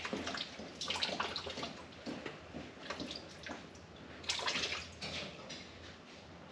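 Liquid splashing and trickling in irregular spurts.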